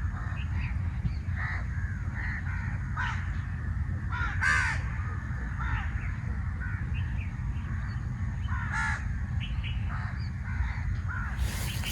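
Crows cawing repeatedly, with the loudest calls about four and nine seconds in, over a steady low rumble. A few sharp crackles come near the end.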